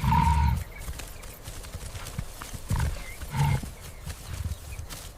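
Wildebeest grunting: short, low nasal calls, one loud call at the start and two shorter ones about three seconds in.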